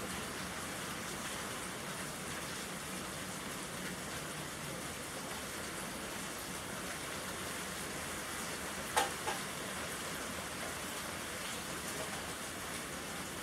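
Steady rain falling, an even hiss. About nine seconds in come two sharp clicks in quick succession.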